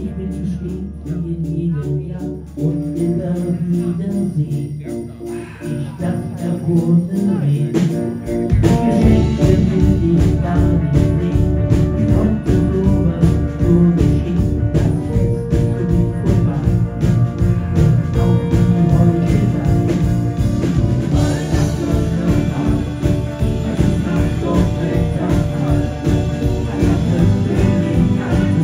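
Live pop band playing a Christmas song, with no singing picked up. For about the first eight seconds it is a quieter passage of held chords over a light jingling beat. Then the drums and the full band come in and play on loudly with a steady beat.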